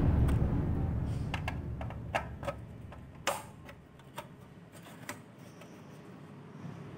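A low rumble fading away over the first few seconds, with a handful of scattered sharp clicks and taps.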